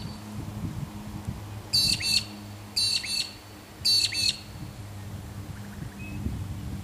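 A bird calling three times about a second apart, each call a quick harsh double note, over a steady low machine hum.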